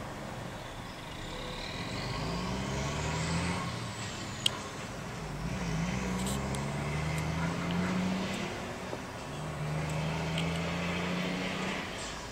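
Road vehicles driving past the stationary bus, their engines rising in pitch as they pull away and then running steady, with the sound swelling and fading. A single sharp click about four and a half seconds in.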